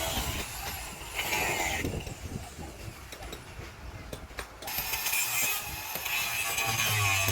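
Mechanical clattering and clicking, with a few sharp knocks in the quieter middle stretch.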